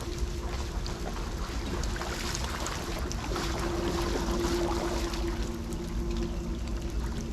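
Floodwater pouring and gurgling into a street storm drain, with a steady hum underneath.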